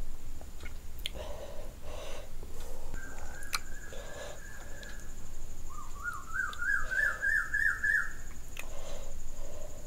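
Chewing sounds of someone eating rice and curry by hand, with a bird calling in the background: a held whistled note about three seconds in, then a quick run of about eight rising notes.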